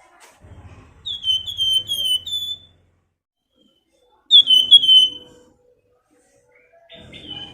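Flamboyan bird singing its whistled "nyiul" song: a run of four short, clear, downward-slurred whistles about a second in, then three more a few seconds later.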